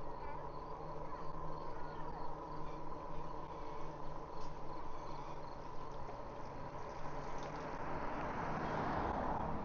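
Electric bike's hub motor whining steadily while riding, over low wind and road rumble, with a rush of noise swelling near the end.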